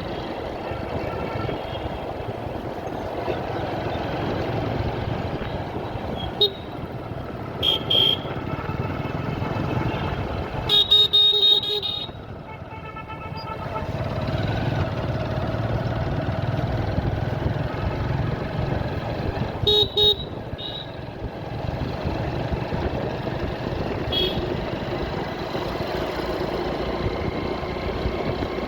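Motorcycle engine running with steady road and traffic noise, and vehicle horns honking several times. The longest and loudest honk comes about eleven seconds in.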